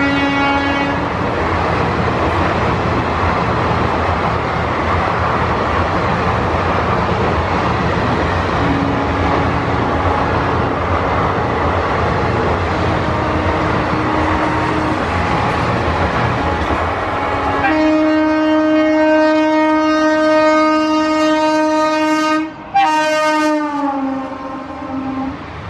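Coaches of a passing express train rumble and clatter along the track, with a locomotive horn at the very start and fainter horn blasts in between. About two-thirds of the way in, an oncoming WAP-4 electric locomotive sounds a long horn blast. The blast breaks off briefly, then resumes and drops in pitch as the locomotive passes.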